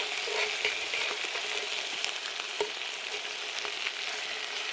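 Bacon and king prawns sizzling steadily in a cast iron pan over a campfire, the garlic and pan juices caramelising, with a few small clicks.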